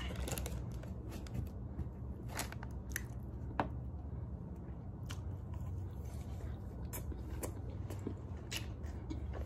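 Chewing and wet mouth smacking while eating sauced chicken wings off a metal fork, with scattered sharp clicks over a steady low hum.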